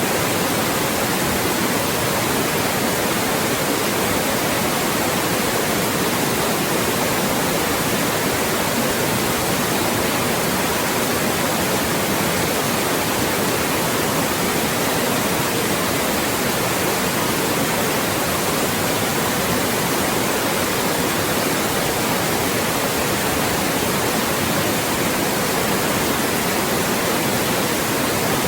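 Loud, steady electronic white noise: an even hiss spread across all pitches, unchanging, of the kind played to mask voices.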